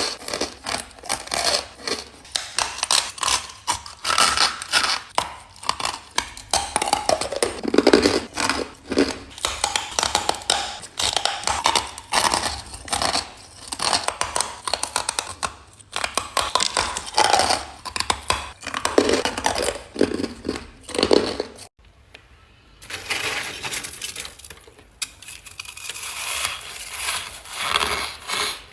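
Close-miked biting and chewing of ice: a dense, continuous crunching crackle of bites and grinding, with a brief break about 22 seconds in.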